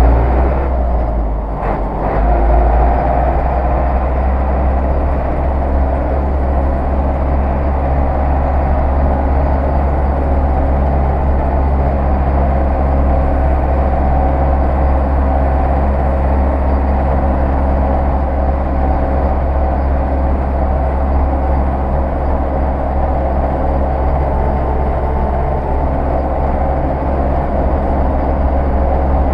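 Zetor 6911 tractor's four-cylinder diesel engine running steadily under way. Its note dips briefly about a second in, then picks up again around two seconds in.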